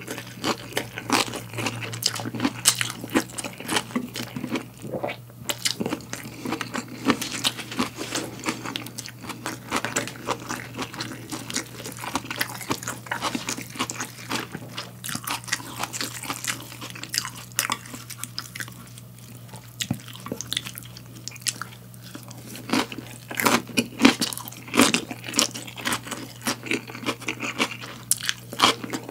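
Close-miked chewing of a crisp salad of lettuce, cucumber, bell pepper, tofu and white wood ear mushroom: rapid wet crunching bites, thinning out in the middle and picking up again near the end. A low steady hum runs underneath.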